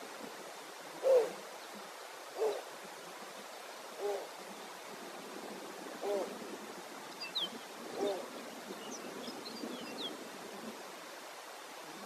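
Snowy owl calling with five short, low hoots spaced about one and a half to two seconds apart, over a faint steady hiss. A few faint high chirps come in around the middle.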